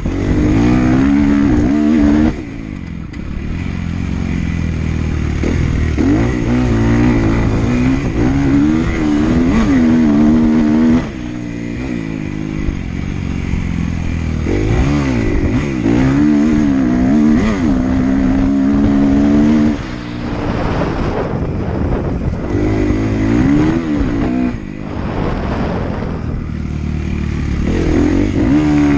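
Motocross dirt bike engine revving hard and shifting through the gears, pitch climbing and falling. The throttle is chopped off suddenly several times, about 2, 11, 20 and 25 seconds in, before it picks up again.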